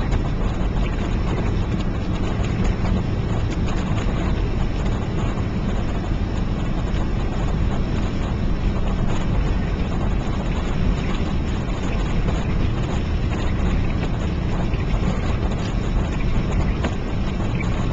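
Steady road noise inside a moving car: a low rumble with tyre and wind hiss over it.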